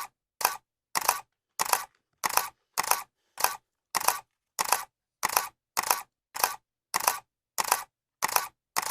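Camera shutter clicking over and over at an even pace, about one and a half to two clicks a second. Each click is a sharp snap with a short tail.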